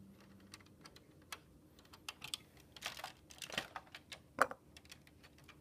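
Plastic LEGO pieces clicking and rattling as a detached wing flap is fitted back onto its sliding track. The small clicks come at irregular moments, with a few louder ones about three and four and a half seconds in.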